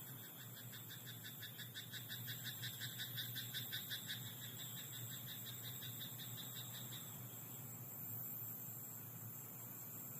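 A frog croaking in a rice paddy at night: a long run of rapid, evenly spaced croaks, about five a second, that swells and then stops about seven seconds in.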